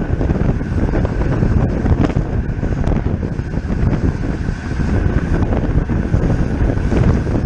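Wind rushing over the microphone of a camera on a racing bicycle at speed, with a faint steady high tone running underneath.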